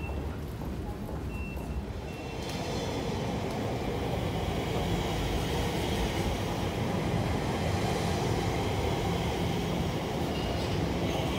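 A train running on rails, a steady rumble that grows louder about two and a half seconds in.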